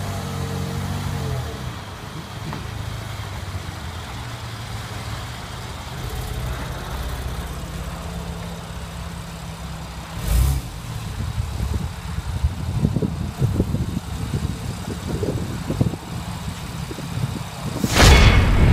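A Porsche 911 Carrera 4S's flat-six engine running with a steady low drone. There is a short loud burst about ten seconds in and a louder surge near the end.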